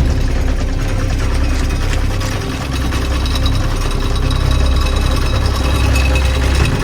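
Single-cylinder diesel engine of a walk-behind farm tractor running steadily, with a fast, even knocking beat.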